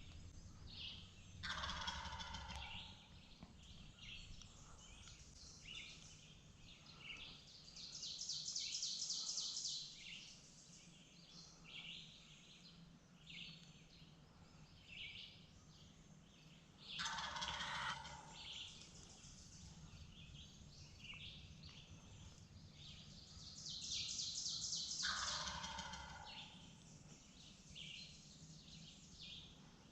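Wild turkey gobbler gobbling three times, each a rattling call that falls in pitch, near the start, past the middle and near the end. Songbirds chirp and trill throughout.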